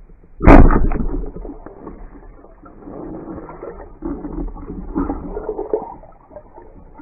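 A loud splash about half a second in, then muffled underwater gurgling and bubbling.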